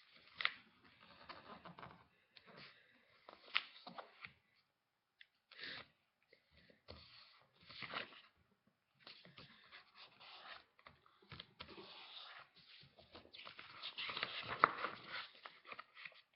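A sheet of paper being handled and folded into a paper airplane: on-and-off rustling and crinkling with sharp creasing crackles, busiest near the end.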